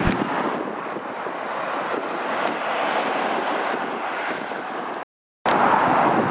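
Traffic on a dual carriageway, mostly trucks, passing close by with a steady rush of tyre and engine noise and wind on the microphone. The sound cuts out for a moment about five seconds in, then comes back slightly louder.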